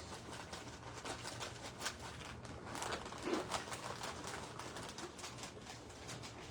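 Peanuts rattling and clicking as they are poured and stirred in a bag and bowl: a dense, uneven run of small clicks, with a short low tone about three seconds in.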